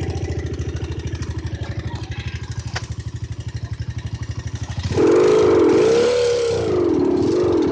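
Honda Mega-Pro single-cylinder four-stroke motorcycle engine, fitted with an add-on sound booster on the exhaust, idling with an even pulsing beat, then revved suddenly about five seconds in with a few throttle blips that rise and fall in pitch. A single sharp click sounds near the middle.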